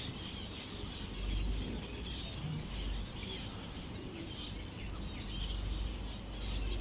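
A flock of ornamental aviary birds chirping, many short high calls overlapping, over a low rumble.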